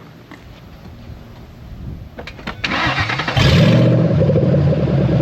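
A three-valve V8 cranked by the starter and firing up about three and a half seconds in, then idling loud and raw. Its exhaust is broken where the catalyst-delete welds gave out, leaving it on open headers with a big exhaust leak.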